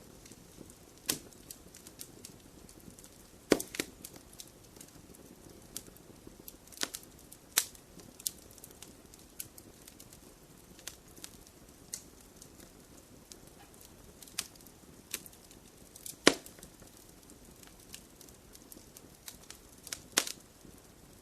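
Wood fire crackling in a fireplace: irregular sharp pops and snaps over a soft steady hiss of burning, with a few louder pops, the loudest about three and a half seconds in and again about sixteen seconds in.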